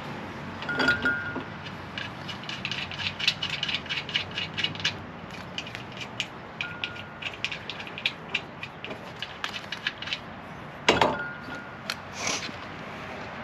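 Hand socket ratchet clicking in quick runs as bolts are run in, with light metal clinks and one louder knock near the end.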